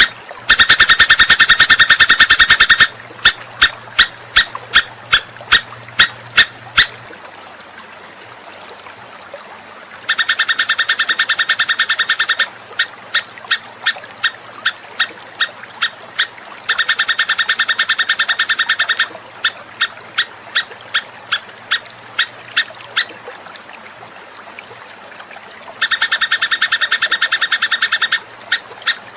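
Recorded songbird calling: a rapid, buzzy trill lasting about two seconds, followed by a run of sharp single chips about two a second. The pattern comes three times, like a looped bird-song training track.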